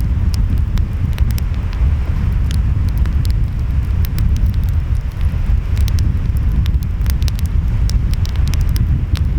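Wood fire crackling, with frequent short sharp pops, over a steady low rumble of ocean waves and wind.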